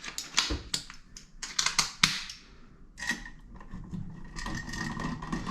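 Light clicks and metal scrapes of a screwdriver working the terminal screws of a side-wired rocker light switch, the wires being tightened under the screws. In the second half the clicks give way to softer scraping and a faint, steady high tone.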